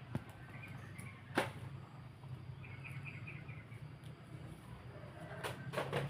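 A few sharp snaps or strikes from weeds being cleared, the loudest about a second and a half in and two more close together near the end. A small bird chirps faintly and gives a short quick trill in between.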